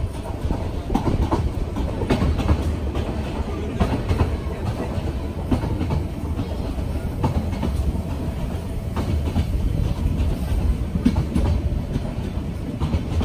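Passenger train running over poorly kept track: a steady low rumble with frequent irregular knocks and rattles from the carriage.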